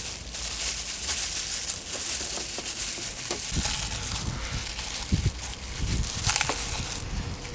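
Rustling and crinkling handling noise, with several dull knocks about halfway through.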